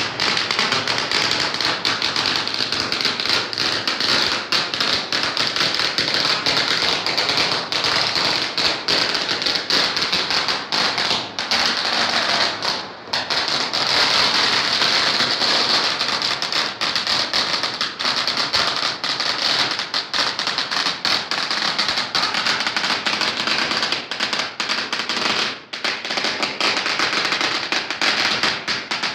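Firecrackers going off in a rapid, dense, continuous crackle, with brief lulls about 13 seconds in and again about 25 seconds in.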